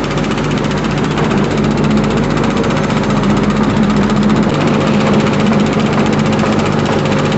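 Engine-driven construction machinery running steadily at a concrete pour, a loud low hum with a fast, even chatter over it.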